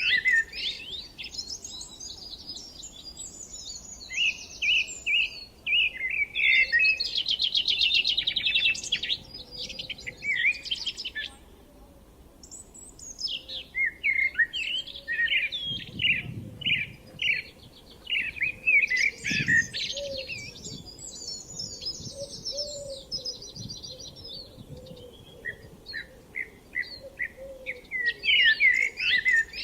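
Songbirds singing: rapid chirps and trills in overlapping phrases with short pauses between them, and a fainter, lower call underneath.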